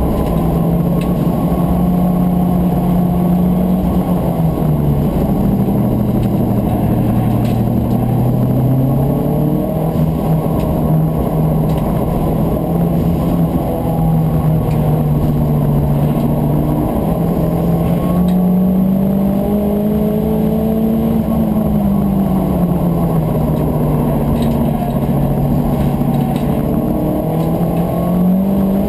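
Turbocharged Volkswagen Corrado race car's engine under hard driving, heard from inside the cabin and muffled, its pitch dropping and climbing again twice as the driver lifts, shifts and accelerates through the corners.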